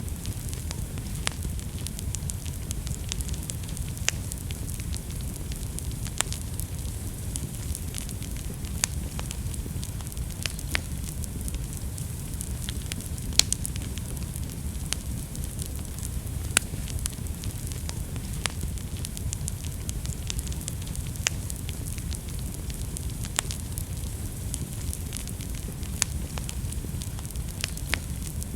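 Wood fire burning in a fireplace: a steady low rumble of flames with irregular sharp crackles and pops scattered throughout, a few louder pops standing out.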